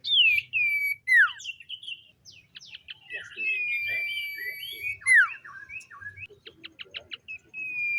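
Common iora singing: long, level whistles and sharply falling whistled notes, with a quick run of short chips a little after the middle.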